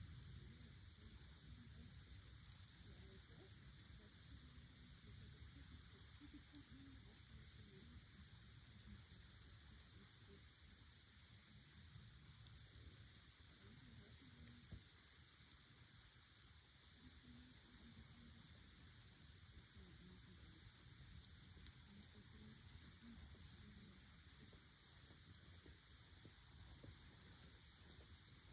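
Crickets chirping at night in a steady, high-pitched chorus that doesn't let up.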